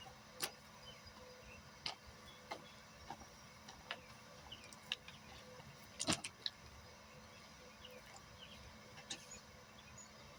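A scattered series of short, sharp clicks and knocks, about ten in all, with the loudest cluster about six seconds in, over a faint steady hum.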